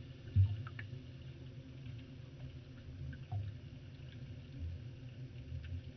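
Underwater ambience picked up by a camera: a low rumble with a sharp thump about half a second in, softer low bumps later, and faint scattered clicks.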